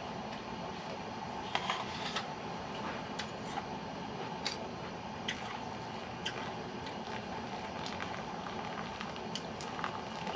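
Faint, scattered small clicks and crackles over a steady background hiss.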